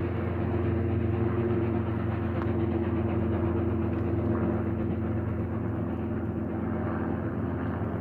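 A train's engine running with a steady drone, holding an even pitch and level without fading.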